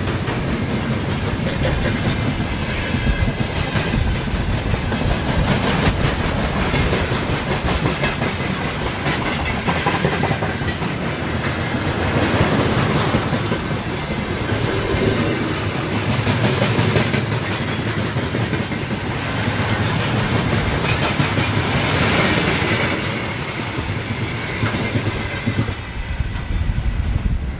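A train passing close by on the electrified line, its wagon wheels clattering over the rail joints in a steady rush of noise.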